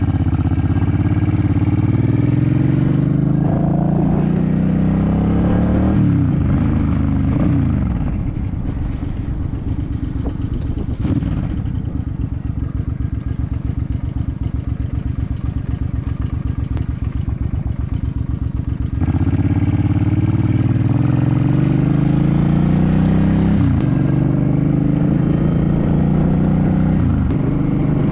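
2006 Suzuki C50's V-twin engine accelerating up through the gears, its pitch climbing and dropping at each shift, then settling to an idle for about ten seconds before pulling away and shifting up again.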